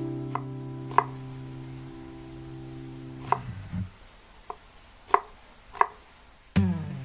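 A knife striking a cutting board about six times, single cuts spaced roughly half a second to a second apart rather than rapid chopping. An acoustic guitar chord rings and dies away under the first half.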